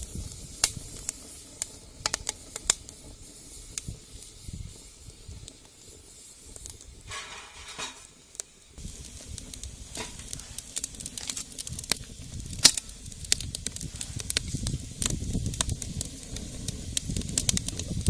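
Wood fire in a homemade brick rocket stove crackling, with sharp irregular pops.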